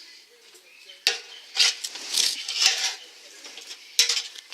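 Short bursts of rustling, scraping and clattering as objects are shifted about: a few bursts in the first three seconds and another sharp clatter about four seconds in.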